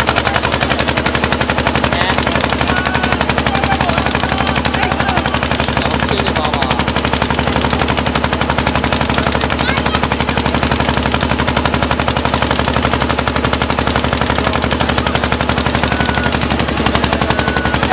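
Boat's diesel engine running steadily with a rapid, even chugging.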